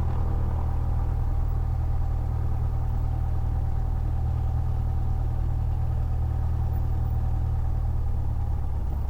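Cessna 172's piston engine running steadily at low taxi power, an even low drone with no change in pitch.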